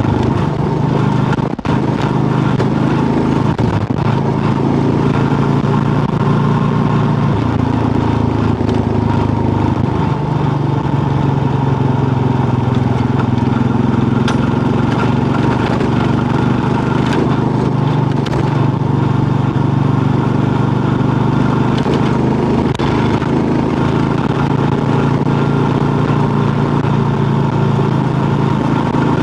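Kawasaki KLR650's single-cylinder four-stroke engine running steadily while riding a gravel road, its note stepping up about seven seconds in. An even haze of road and wind noise sits under the engine.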